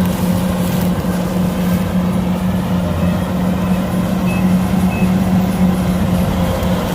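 Kubota DC-105X combine harvester's diesel engine and threshing machinery running steadily under load, a constant low drone. Two short high beeps sound about four and five seconds in.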